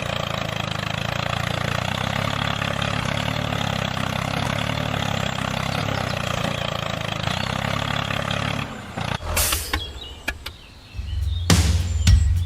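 Engine running steadily, then cutting off abruptly about nine seconds in; a few clicks follow, and music with heavy bass starts near the end.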